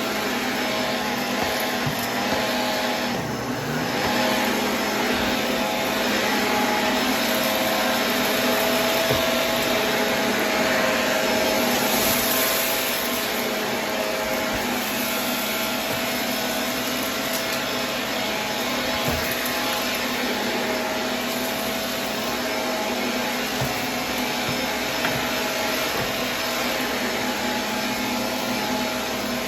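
Vacuum cleaner running steadily, its motor holding an even hum over a constant hiss of airflow, with a few faint ticks.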